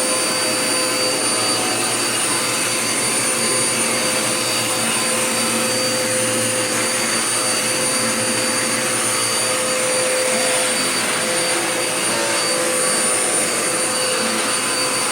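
Dirt Devil Power Max bagless vacuum cleaner running steadily while vacuuming, a constant rushing of air with a high motor whine.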